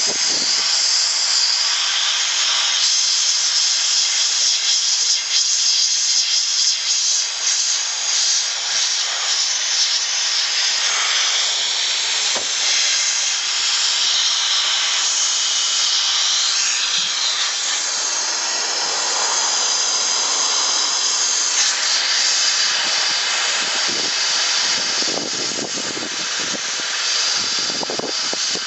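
Central Pneumatic #95793 gravity-feed sandblasting gun blasting: a loud, steady hiss of compressed air and abrasive media, with slight wavering.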